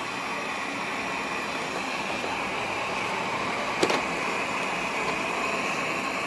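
Airzeen R7 robot vacuum running, a steady whir with a high whine from its suction fan, and a single sharp knock about four seconds in.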